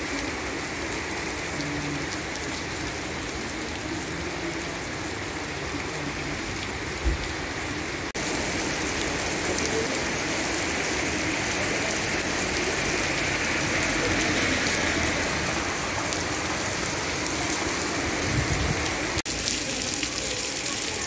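Heavy rain pouring onto a paved street, a steady hiss of drops hitting the paving, the road and running water. It gets louder about eight seconds in.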